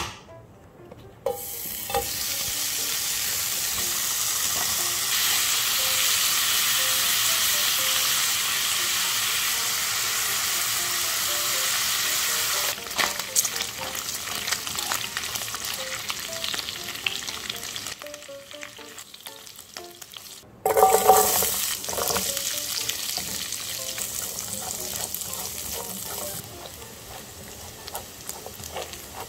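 Thin-sliced pork belly sizzling in a hot nonstick frying pan while wooden chopsticks stir it, with small clicks and scrapes. After a short break, sliced garlic frying in the fat starts with a sudden loud burst of sizzling that slowly dies down.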